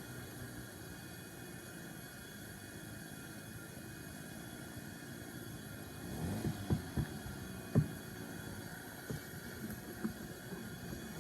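Steady distant drone of lawn mowers. From about six seconds in, a few sharp clicks and taps break in, the loudest near the end.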